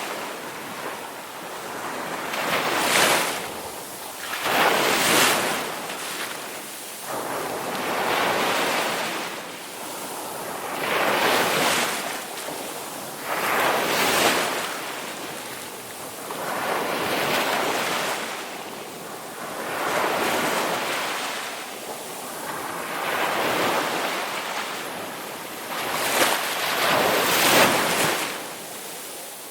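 Ocean waves breaking and washing in, one surge every two to three seconds, each rising to a rushing crest and falling away.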